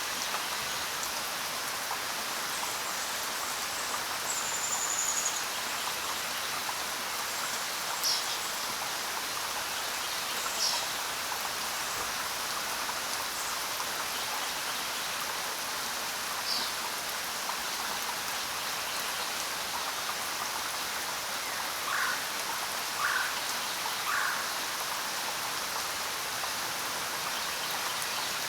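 Steady rain falling on the ground: an even hiss of drops, with a few brief, sharper sounds standing out now and then, three of them close together near the end.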